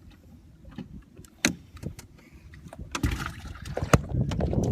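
A few sharp clicks and knocks, then from about three seconds in a louder close-up rubbing and rumbling with more knocks: handling noise against the microphone.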